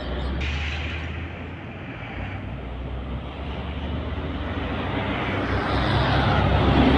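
Road traffic with a heavy truck engine humming, fading slightly and then growing louder through the second half as a vehicle draws near.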